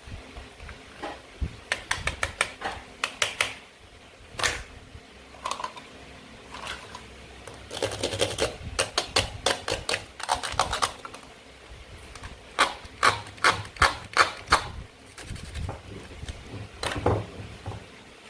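Plastic and wooden toy food being cut and handled. Quick runs of sharp clicks and taps come in bursts several seconds apart.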